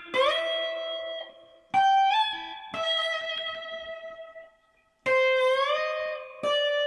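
Slide guitar playing a short solo phrase in A: about five ringing notes, several of them slid up into pitch with vibrato, with a short pause near the middle.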